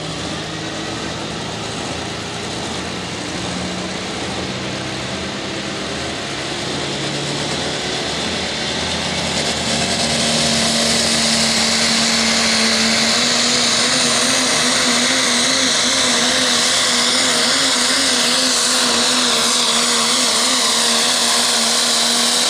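Stock diesel pickup truck engine running, stepping up about ten seconds in to a louder, steady high-rev drone with a high whistle over it.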